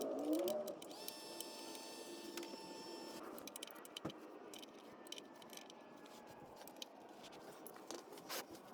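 Faint metallic clicks and light scraping of a wrench on the oil drain plug as it is threaded back into the oil pan, with one sharper click about four seconds in.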